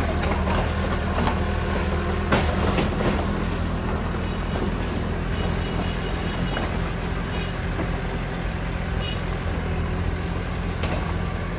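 Heavy diesel engine running steadily at a low, even hum, with a few knocks about two seconds in and again near the end.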